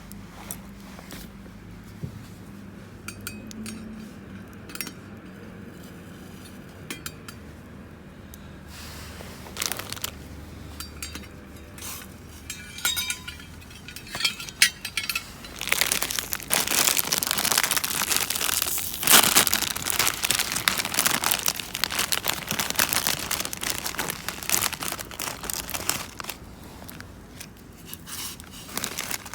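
Crinkling and rustling of wrapping being handled, with small clicks and clinks of camp gear; from about halfway it turns into a dense, louder stretch of crinkling that eases off near the end.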